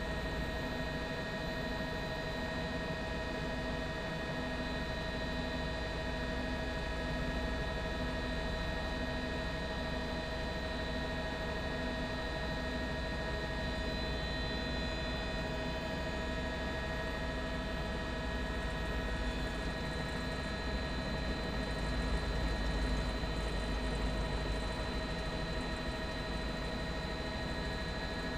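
Helicopter engine and rotor noise heard from inside the cabin: a steady whine of several held tones over a constant rumble, swelling slightly near the end.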